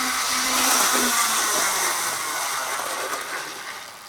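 First-generation Athearn HO model diesel locomotive whirring fast along the rails, its motor and flywheels spinning. The whir fades steadily away as the locomotive coasts down on its flywheels, dying out near the end.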